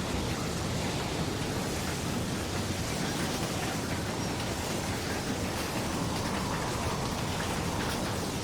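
Hail and heavy rain pounding a car: a steady, dense rush with faint scattered impacts.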